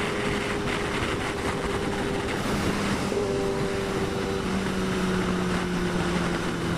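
Kawasaki ZX-10R's inline-four engine running at a steady cruising speed under a heavy rush of wind noise, its note shifting slightly about three seconds in.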